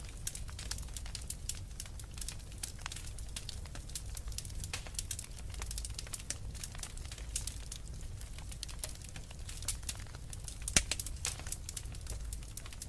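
Wood fire in a fireplace crackling, with irregular sharp pops and snaps over a steady low rumble of burning, and one louder pop near the end.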